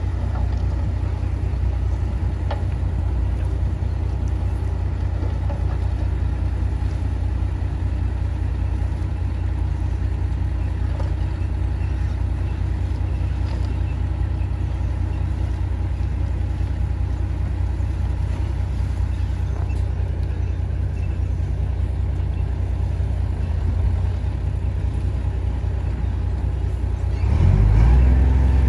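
Heavy diesel engine of earthmoving machinery running steadily with a low rumble. It gets louder near the end.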